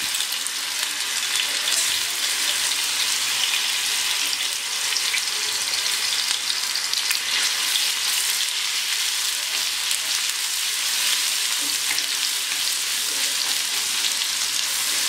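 Ginger-garlic paste sizzling steadily in hot oil on an iron tawa, with fine crackling, while a spatula stirs it around. The paste is being fried to cook off its raw smell.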